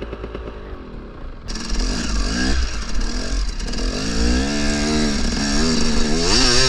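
KTM 300 two-stroke dirt bike engine being ridden hard. It gets suddenly louder about a second and a half in, then revs up and down again and again with quick throttle changes.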